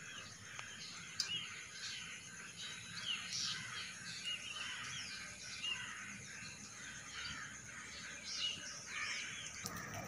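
Many birds chirping and calling over one another, short overlapping calls throughout.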